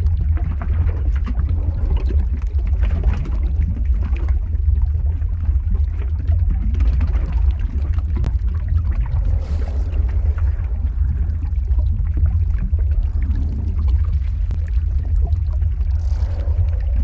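Sound-effect ambience of flowing lava: a steady deep rumble with scattered crackles over it.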